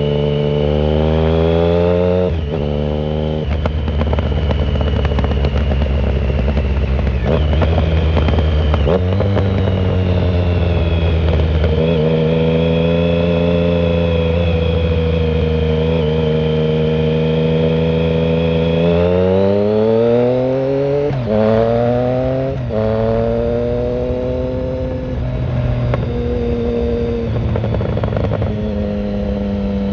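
2009 Triumph Speed Triple 1050's inline three-cylinder engine, through a shorty Competition Werkes exhaust with no silencer, under way. The revs climb and drop sharply at several gear changes, hold steady through a long cruising stretch in the middle, then rise and shift again. It is heard muffled, from a phone in the rider's pocket.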